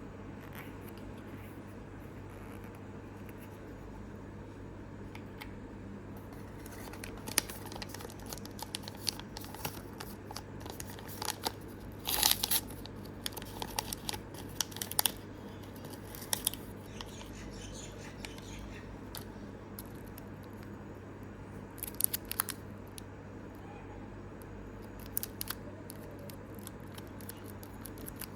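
Small plastic toy packaging being opened and handled, with crinkling, tearing and sharp clicks in scattered bursts. The first several seconds hold only a steady low hum, and the bursts are loudest about twelve seconds in.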